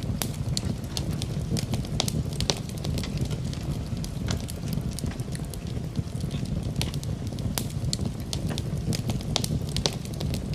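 Wood fire in a fireplace crackling, with sharp, irregular pops over a steady low rumble.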